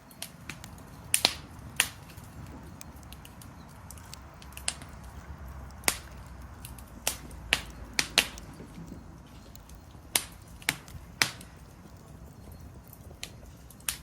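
Wood fire crackling, with a dozen or so sharp pops at irregular intervals over a low steady rush.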